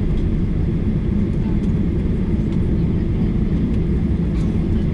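Steady low rumble of a Boeing 737-800's CFM56 engines and airflow, heard from inside the passenger cabin.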